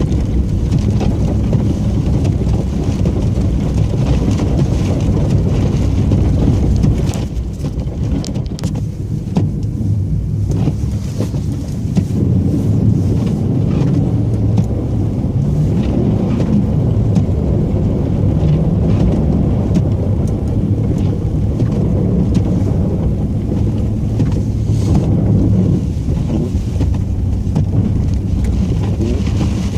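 Snowplow blade grinding along the road surface, scraping off packed snow and ice, over the steady rumble of the plow truck's engine. The noise drops for a few seconds about seven seconds in, then picks up again.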